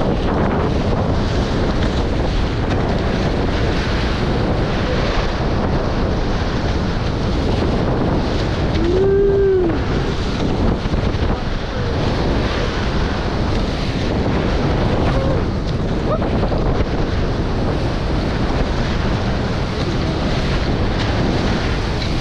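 Wind buffeting the microphone and water rushing past the hulls of a Nacra 20 beach catamaran under sail, a steady loud rush. A short tone rises and falls in pitch about nine seconds in.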